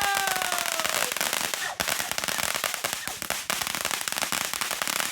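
Consumer firework going off: a whistle sliding down in pitch that fades out about a second in, over dense, rapid crackling that keeps going.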